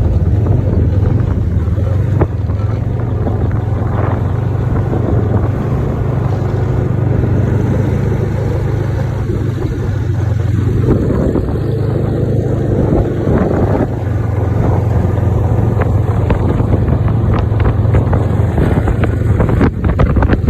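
Snowmobile engine running steadily under way, a constant low drone with wind buffeting the microphone.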